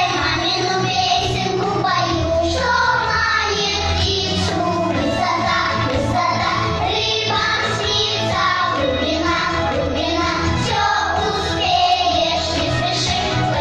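A child singing a song over instrumental backing music.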